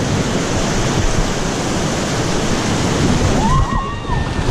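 Whitewater of a Class III+ rapid rushing loudly around a raft, with a brief yell near the end.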